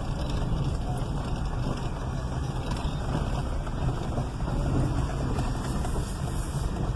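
Steady road and wind noise inside a moving car, a low rumble under a constant hiss.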